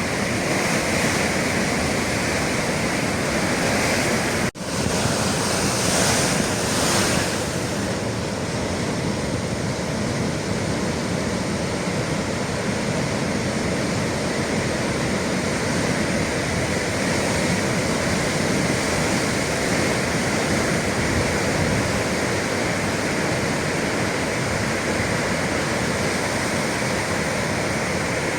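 Atlantic waves washing and breaking against the shore, with wind on the microphone. A louder surge of surf comes about six seconds in, just after the sound drops out for a moment.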